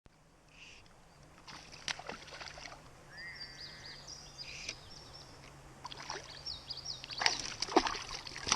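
Short bursts of water splashing from a hooked smallmouth bass fighting at the surface, strongest about seven to eight seconds in. Birds are singing.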